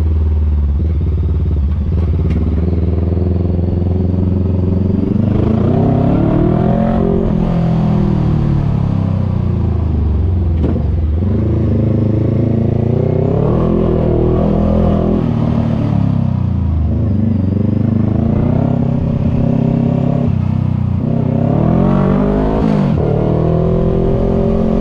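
Voge 500R's parallel-twin engine through a full exhaust with the dB killer removed, heard from on the bike while riding. The engine note holds fairly steady at first, then rises and falls several times as the rider opens and closes the throttle.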